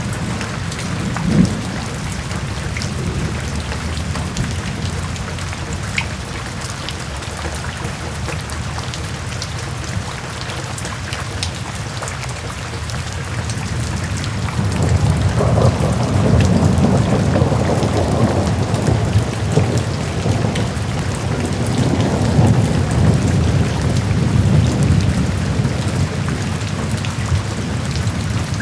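Steady rain with scattered drops ticking. About halfway in, a low rolling rumble of thunder builds and carries on until near the end.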